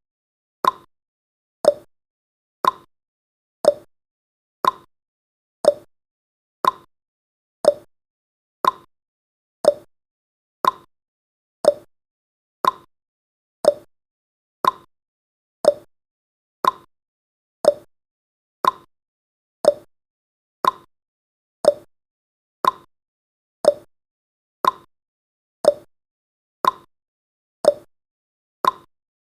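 Countdown timer's tick sound effect: one short pitched click every second, evenly spaced.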